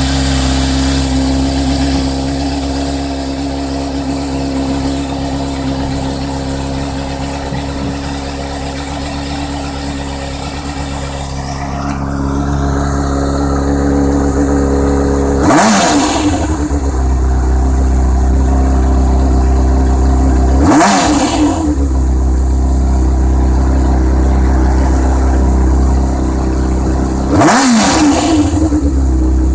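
Honda CBR600F's inline-four engine idling through an Ixil Hyperlow aftermarket silencer, revved briefly three times, each rev rising and falling quickly, about five or six seconds apart.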